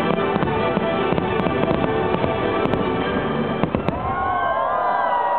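Firework shells bursting with many sharp cracks and pops over the show's music, a louder bang coming near four seconds in. After it, a tangle of gliding, mostly falling tones runs over the music.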